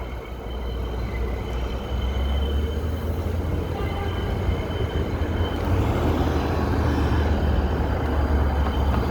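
Outdoor city street traffic: a steady low rumble of passing vehicles that grows gradually louder.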